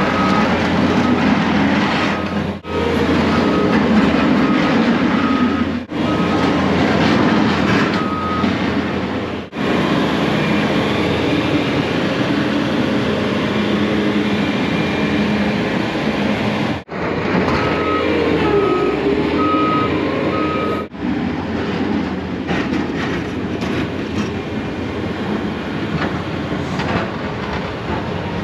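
Snow plow vehicle engine running steadily while plowing, with a reversing alarm beeping about twice a second for the first several seconds and again for a few seconds later on. The sound breaks off abruptly several times.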